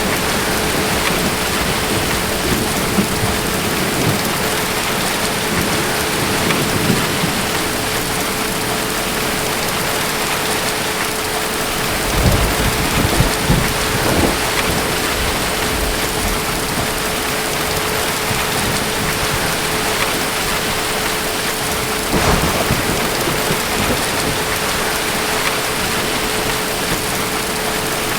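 Steady rain, with low rolls of distant thunder swelling a little under halfway through and again about three quarters of the way in.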